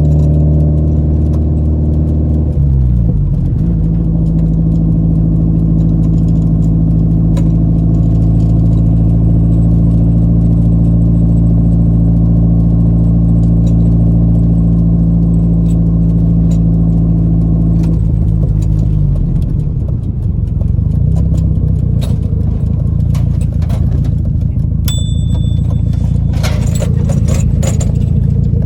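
Car engine running at steady revs, its pitch dropping about two and a half seconds in and again around eighteen seconds in as the revs fall. Near the end come a short high electronic beep and some clattering.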